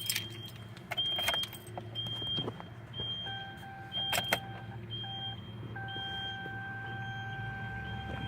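A 2010 Chevrolet Colorado's 3.7-litre inline-five engine starts right up and settles into a steady idle. Over it, a school bus gives short high beeps every second or so, and a lower steady beep tone comes in a few seconds in.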